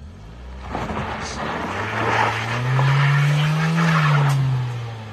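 SUV engine revving up for about three and a half seconds and then easing off, with a wheel spinning and scrabbling on the loose dirt slope. Only one wheel is driving, so the car slips in place instead of climbing.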